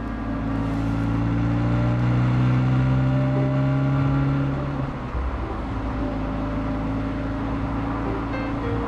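Honda Fit's engine pulling under acceleration, its pitch rising slowly for about five seconds, then dropping about five seconds in and running steadier, as at a gear change or easing off the throttle.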